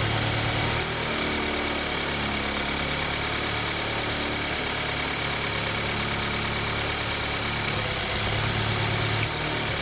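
2014 Mazda 3's 2.0-litre four-cylinder engine idling cold during a cylinder drop test, its ignition coils unplugged one at a time. Two sharp clicks, one about a second in and one near the end, each come where the low engine hum changes.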